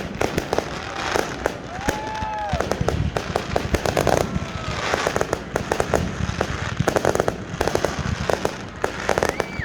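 Fireworks display going off in rapid volleys of sharp bangs and crackling. Several whistling shells rise and fall in pitch, the clearest about two seconds in.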